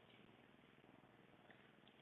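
Near silence: faint outdoor background, with two faint short bird chirps near the end.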